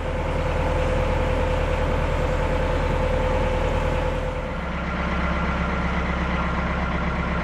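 Narrowboat engine running steadily under way, a low even drone; its note changes about four and a half seconds in.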